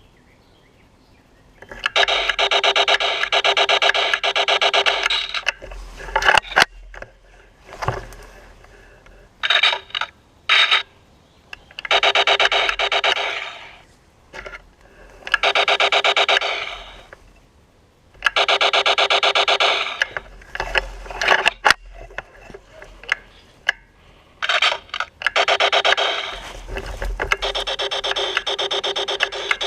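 Laser tag blaster's electronic firing sound: repeated bursts of rapid-fire pulses making a fast buzz, each burst lasting one to four seconds, with a few short single shots between.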